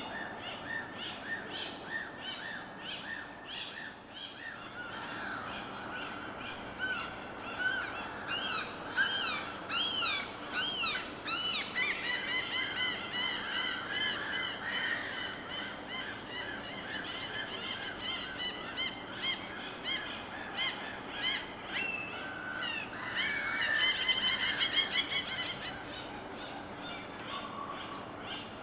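Birds calling in many short repeated notes over a steady low wash, with quick trains of chirps and louder arched calls in the middle of the stretch.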